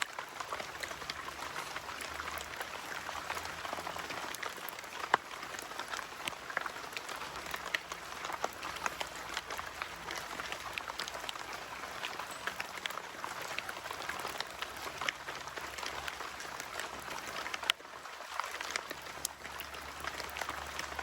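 Steady rain falling, with many separate drops striking close by as sharp little clicks.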